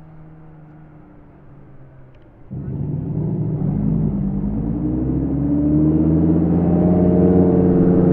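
Supercar engine running quietly at first, then suddenly much louder about two and a half seconds in as it is revved, its pitch rising and then holding high and loud.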